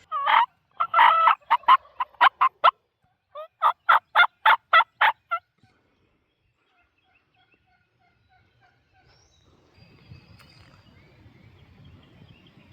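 Wild turkey gobbling twice, loud and close, each gobble a rapid rattling run of notes. A fainter run of about ten evenly spaced notes follows.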